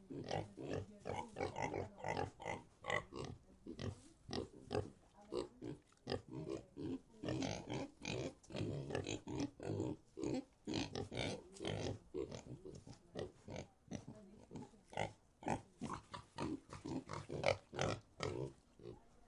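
Pig grunting in a rapid stream of short grunts, several a second, which stops just before the end.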